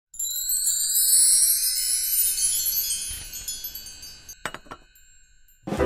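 A shimmering, magical chime sound effect with rising, glittering sweeps. It starts abruptly and fades away over about four seconds, followed by a couple of faint clicks. Piano music starts right at the end.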